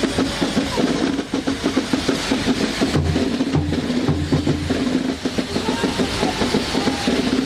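Drums playing a fast, continuous roll, with a few heavy bass-drum beats about three to four seconds in.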